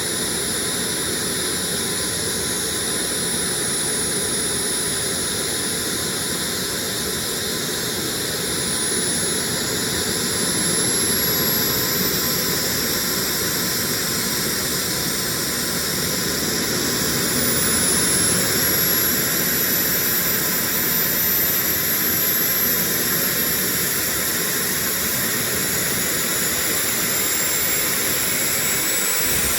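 Small turbojet engine running with a steady rushing roar. A thin high whine climbs in pitch twice, at about a third of the way in and again past the middle, as the engine grows slightly louder.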